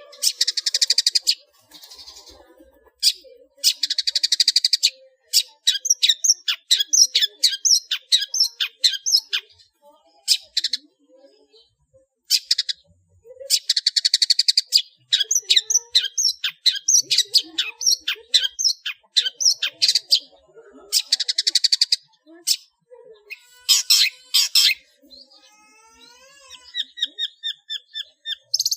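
Long-tailed shrike (cendet) singing a loud, varied song made up of imitations of other birds. It alternates bursts of harsh, buzzy chattering with quick runs of sharp notes, and near the end gives a series of clear whistles.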